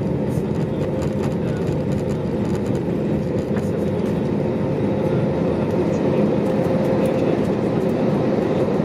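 Airbus A320neo cabin noise: a steady engine drone and rumble with a constant hum, getting slightly louder near the end.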